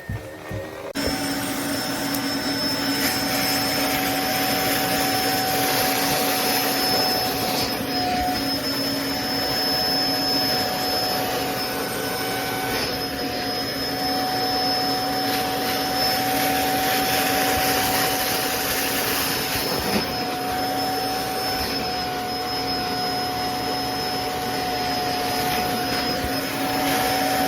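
Cordless electric spin mop's dual motors switching on about a second in and running steadily: a hum with a steady high whine over it.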